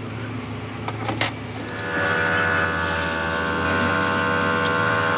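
Two sharp metallic clicks, then a small electric motor starts up about two seconds in and runs with a steady whine over a low background hum.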